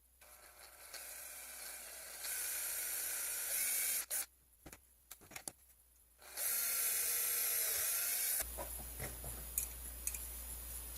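Small power drill running in two bursts, about three seconds and then about two seconds, boring a 3/32-inch hole through aluminum and metal-filled epoxy, with a few small clicks between and after.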